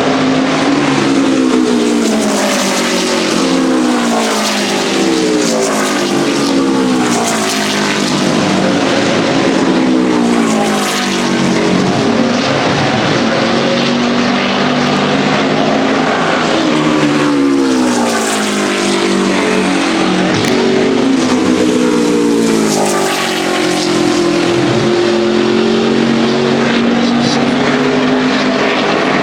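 NASCAR Craftsman Truck race trucks' V8 engines running at speed on track, several at once. The engine notes keep rising and falling as trucks pass and shift.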